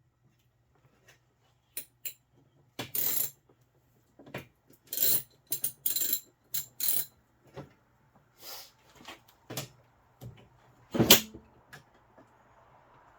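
Metal hand tools clinking as bolts are worked with a wrench and socket: sharp, irregular clicks and clanks, with one louder clank about eleven seconds in.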